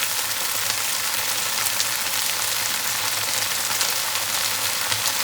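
Shrimp and vegetables sizzling in a frying pan with a splash of added water, a steady crackling stir-fry sizzle.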